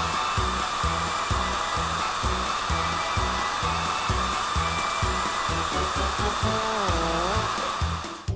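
Steady electric whirring of a spinning cartoon buffing disc working over a rusty motorcycle, over background music with a steady beat. A short wavering tone comes in about seven seconds in, and the whirring cuts off just before the end.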